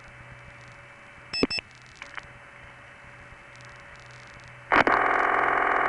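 Telephone line audio of a long-distance call over N1 carrier into a step-by-step end office dialled to a vacant level: background trunk noise with a faint steady tone, a couple of sharp switching clicks about a second and a half in, then a loud harsh buzz near the end lasting about a second and a half.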